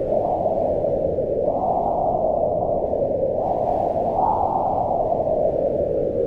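Wind howling steadily, its pitch rising and falling in slow swells every second or two.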